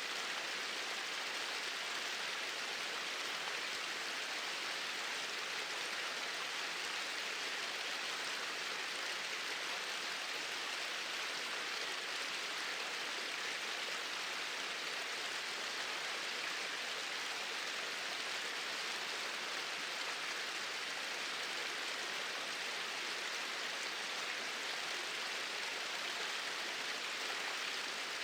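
Small waterfall pouring in a steady flow, a constant even rush of water with no change.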